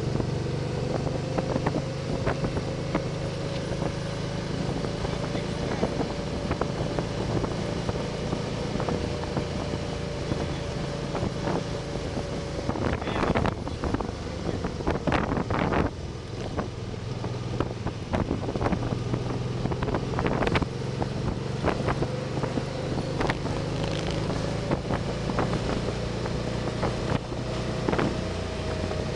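Can-Am Spyder three-wheeled motorcycle's engine running at a steady cruise, its pitch drifting slightly, with wind rushing over the microphone. A few sharp knocks come about halfway through.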